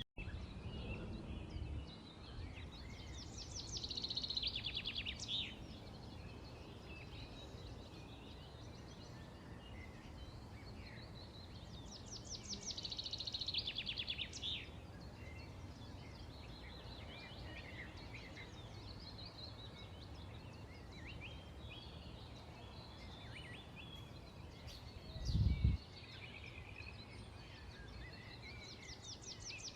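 Small songbirds chirping and singing, with a fast trill of rapidly repeated notes recurring several times, over a steady low background rumble. A short low thump about 25 seconds in is the loudest moment.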